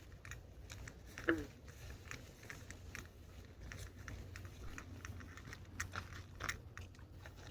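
Faint, irregular crunching clicks, a few a second and uneven in spacing, over a low steady hum. About a second in comes one short squeak that falls in pitch.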